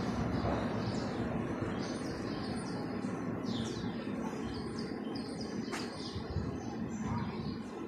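Small birds chirping over and over with short, quickly falling calls, over a steady low street hum; one sharp click about six seconds in.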